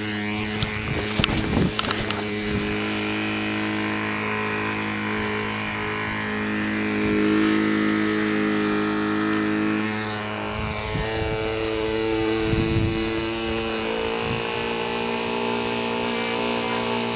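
Small model aircraft engine of a control-line plane running steadily on a run-in, its pitch drifting a little up and down. A few sharp knocks sound about a second in.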